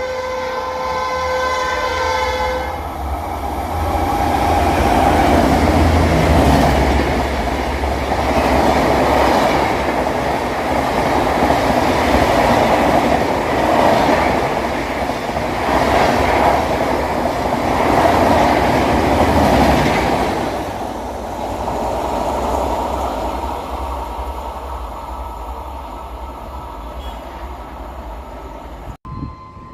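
Passenger train horn held for about two and a half seconds, then a high-speed express train rushing past close by, the coaches' rumble swelling and ebbing about every two seconds before fading away. The sound cuts off abruptly just before the end.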